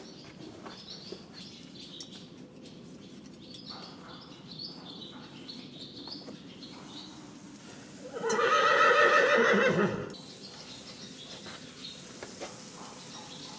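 A horse neighs loudly once, for about two seconds just past the middle. Before it, small birds chirp over and over in the background.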